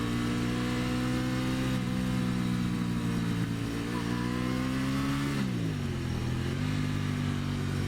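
Aprilia Tuono 660's parallel-twin engine running under load at steady high revs, with wind rush. About five and a half seconds in its pitch dips, then holds steady a little lower.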